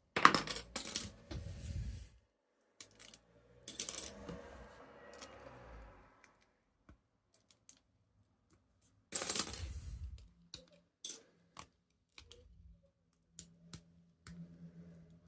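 Small plastic Lego pieces clicking and rattling as a brick-built model is handled, in three bursts of clatter with single clicks between.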